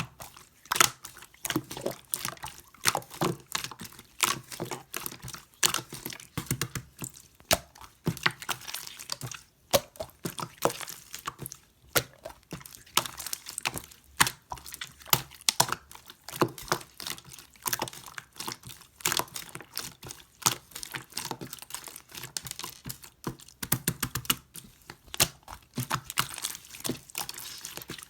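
Slime being squished and pressed by hand, making irregular clicky pops and crackles several times a second.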